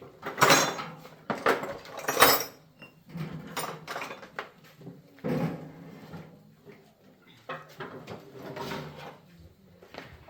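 Irregular knocks and clatter of metal parts and tools being handled, the loudest about half a second and about two seconds in, then lighter and sparser.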